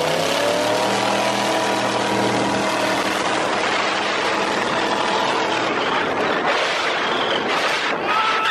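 Demolition-derby cars' engines revving hard as the cars launch down the strip. The pitch climbs over about the first second, then holds steady at high revs over a loud rush of noise.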